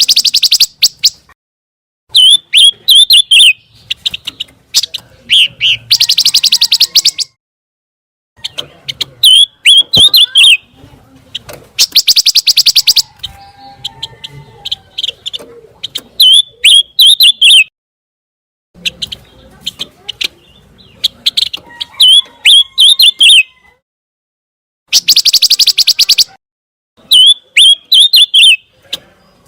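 Recorded song of the bird called pancawarna in Indonesian bird-keeping, looped as master training audio for songbirds. Phrases of quick, sweeping chirps alternate with fast, rattling trills about a second long, with short pauses between them.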